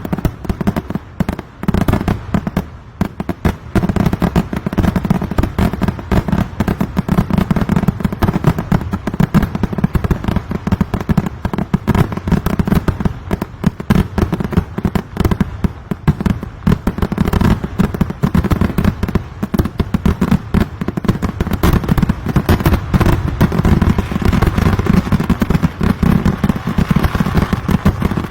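Kerala temple fireworks (vedikkettu): a dense, continuous barrage of rapid firecracker bangs running together, with a brief lull about two seconds in.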